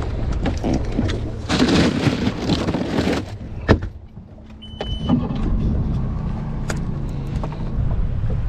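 Small boat's motor running under way, with wind buffeting the microphone. A sharp knock comes a little under four seconds in, and a brief high tone about a second later.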